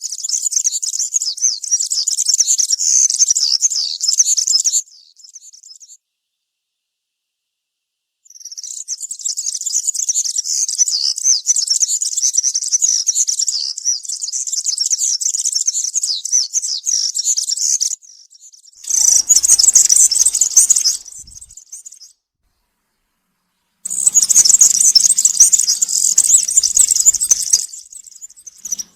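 European serin singing its rapid, high-pitched song in four long phrases, with stretches of silence between them.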